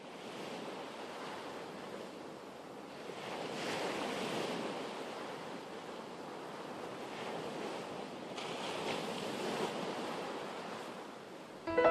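Sea surf: waves washing in as a steady rushing noise that swells twice, about four and nine seconds in.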